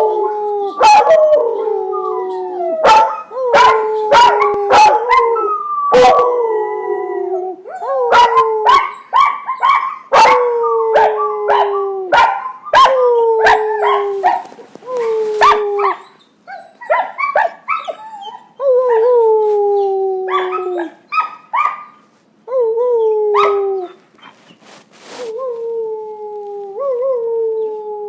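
Puppies howling: a long run of drawn-out howls that slide down in pitch, repeated again and again, broken by short, sharp yips and barks.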